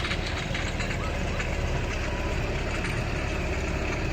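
Tractor diesel engine running steadily, a low even rumble.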